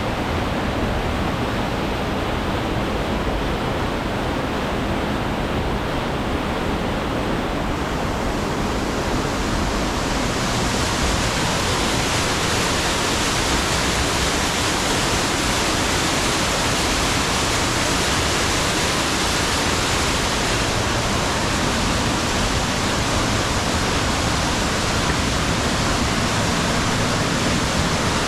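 Rushing water of a mountain stream cascading through a narrow gorge, a steady even rush. About ten seconds in it turns brighter and hissier.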